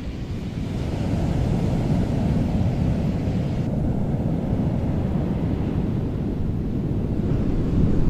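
Steady low rumbling noise. A higher hiss over it drops away about four seconds in.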